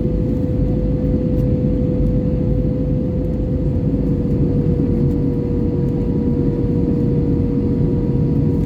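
Airbus A320-214 cabin noise from a window seat: the steady roar of airflow and CFM56 turbofan engines in flight, with a constant droning tone over the low rumble.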